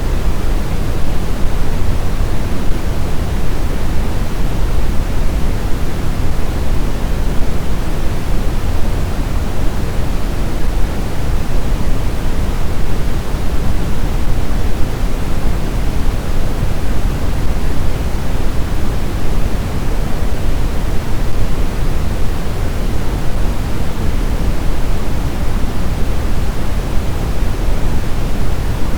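Steady, deep rushing noise of blizzard wind, even in level, with no separate gusts or other sounds.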